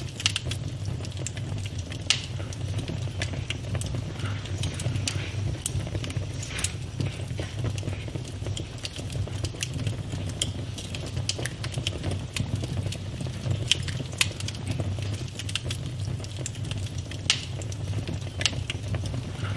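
Campfire burning with a steady low rumble and frequent irregular sharp crackles and pops.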